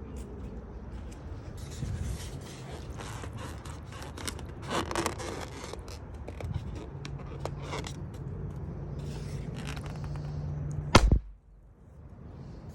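Rubber balloon being handled with scraping and rubbing noises, then one sharp, loud pop about eleven seconds in, the balloon bursting. A steady low hum runs under the handling for a few seconds before the pop.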